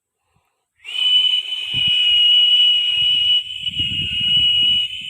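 Toy airplane's jet sound: one steady, loud, high-pitched whistling tone with a faint hiss above it, starting about a second in and stopping just at the end, over low knocks and rumbling from the toy being handled.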